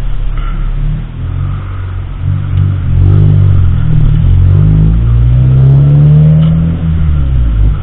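Car engine pulling under acceleration, its pitch climbing over a few seconds, then dropping briefly before climbing again.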